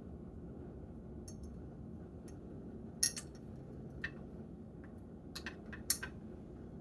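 Small metal parts of a fuel transfer pump clicking and clinking together as they are fitted by hand. There are a few light scattered clicks, the loudest about three seconds in and a quick cluster near the end, over a steady low hum.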